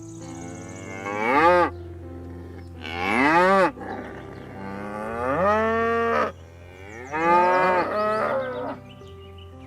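A cow mooing four times: two shorter calls, then two longer, drawn-out moos.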